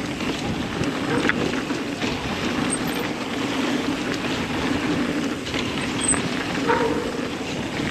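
Steady rushing, rumbling noise of a mountain bike rolling fast down a dirt flow trail.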